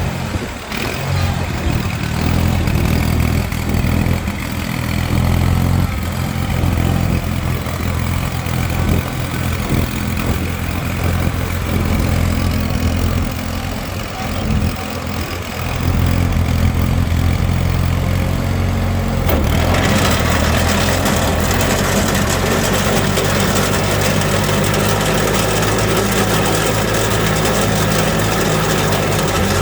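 John Deere 318 lawn tractor's twin-cylinder engine running steadily. About 19 seconds in, the sound abruptly gets louder and brighter, with a hiss added over the engine note.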